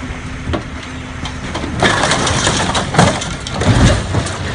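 An engine running steadily, with a rush of noise about two seconds in and two heavy thumps, the second about a second after the first.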